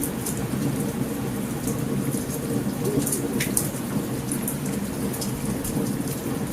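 Steady heavy rain with a continuous low rumble of thunder, and scattered brief sharp crackles from a campfire.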